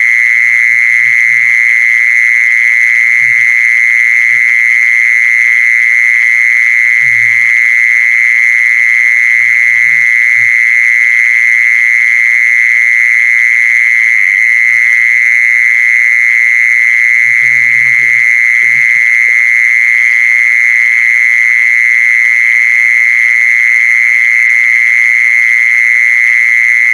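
A continuous, high-pitched steady trill held at one pitch, an animal-calling lure sound played to attract a female 'kmol' animal.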